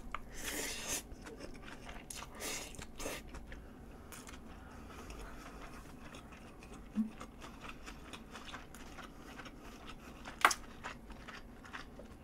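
Close-miked mouth sounds of someone chewing a large mouthful of spaghetti: soft wet smacks and small clicks, with a sharper click about ten seconds in.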